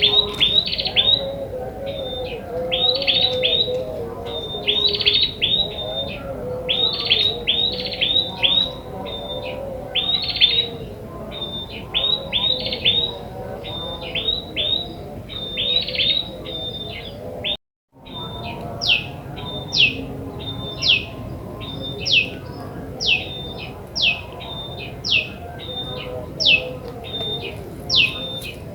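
Song of the prenjak kepala merah, a red-headed tailorbird: repeated high chirps in quick clusters, then after a brief break about two-thirds through, a slower run of single sweeping notes about once a second. It is natural song used as a lure call for trapping.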